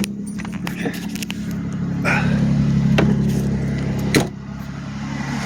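Ford Taurus SHO's 3.0-litre Yamaha-built V6 idling steadily, still cold from a cold start. Several sharp clicks and knocks sound over it; the loudest comes about four seconds in.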